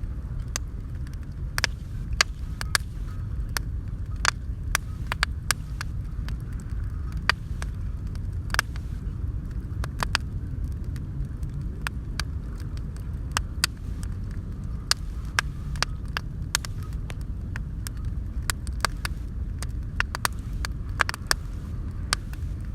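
Wood bonfire crackling, with many sharp, irregular pops over a steady low rumble.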